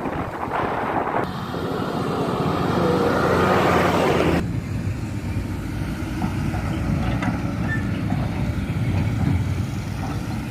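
An engine running steadily with a low drone, overlaid by a louder rushing noise from about one to four seconds in.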